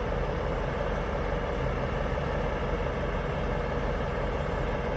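Truck engine idling with a steady, unchanging low drone.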